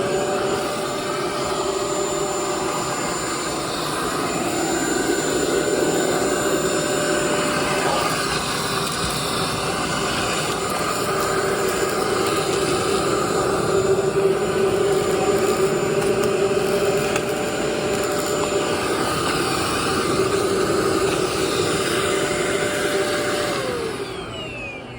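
Bissell Pet Slim cordless stick vacuum running with its crevice tool: a steady motor whine over the rush of suction. The motor winds down and shuts off near the end.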